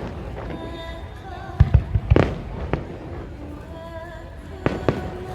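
Aerial fireworks bursting: a cluster of sharp bangs about two seconds in and a couple more near the end, over background music.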